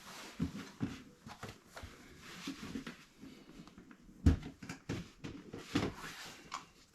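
Close handling noises: faint rustling with scattered short clicks and knocks, the loudest knock about four seconds in, then a few more.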